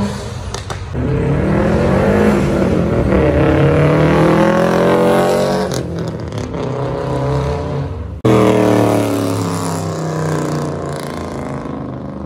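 Car engine accelerating, rising in pitch over several seconds. An abrupt change about eight seconds in gives way to another car engine running hard.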